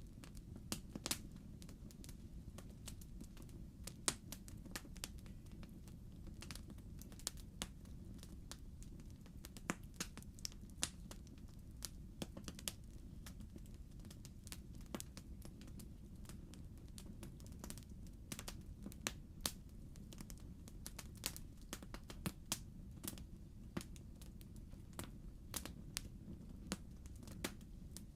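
Logs burning in a fireplace: irregular crackles and sharp pops over a low, steady rumble of flame, with the loudest pop about four seconds in.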